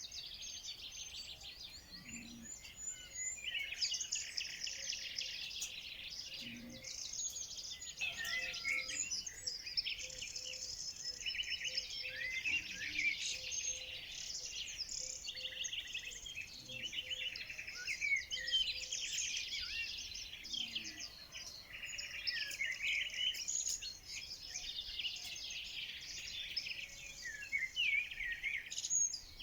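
A chorus of songbirds singing and chirping at once, with many overlapping high trills and twitters.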